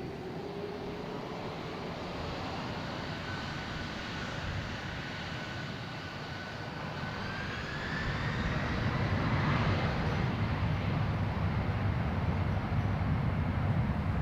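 Jet airliner's turbofan engines during a takeoff: a steady engine whine that rises in pitch, then a low rumble that grows louder about halfway through.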